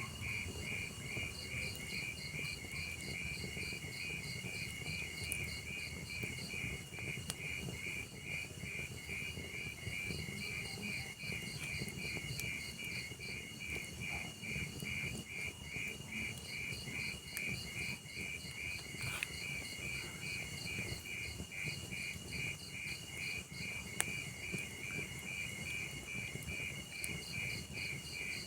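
Crickets chirping in a steady, rapid pulsing trill over the low rumble of a log fire, with a few sharp crackling pops from the burning wood.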